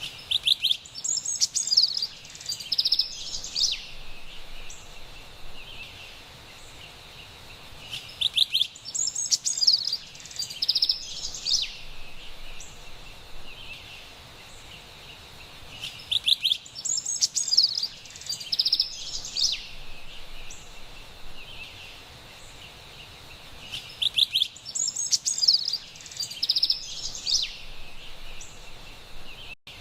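Carolina wren singing: four bursts of about three seconds each, one roughly every eight seconds, each the same run of quick, bright phrases. Under them runs a steady faint background hiss with a thin high tone, and a brief dropout comes near the end.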